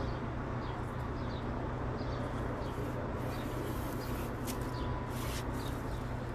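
Short high chirps of small birds repeating over a steady low hum, with a few brief scratchy sounds about four to five seconds in.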